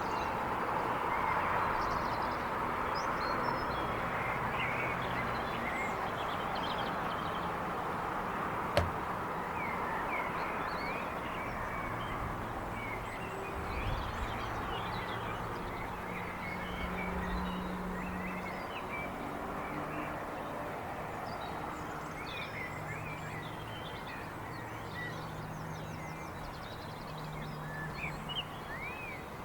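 Suburban evening outdoor ambience: many small birds chirping and calling over a steady rush of distant traffic. A single sharp bang comes about nine seconds in, and a low droning hum joins in the second half.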